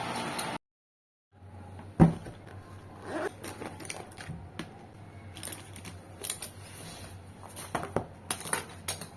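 A brief burst of hiss cuts off at the start. A steady low hum follows, with a sharp knock about two seconds in, then scattered light clicks and clatters of small objects being handled.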